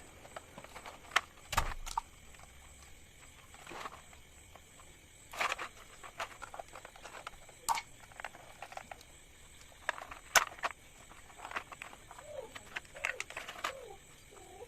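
Scattered clicks, taps and knocks of exhaust fan parts being handled during cleaning, irregular and a few seconds apart, with a few short squeaks near the end.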